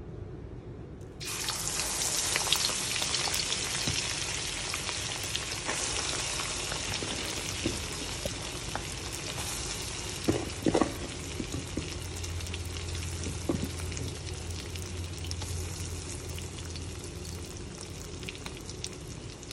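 Pieces of boiled lung coated in turmeric and salt going into hot oil in a stainless steel wok, setting off loud sizzling about a second in. The frying carries on steadily and eases slowly, with a few sharp pops near the middle.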